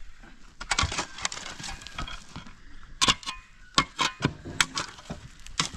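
A series of irregular, sharp knocks and clacks.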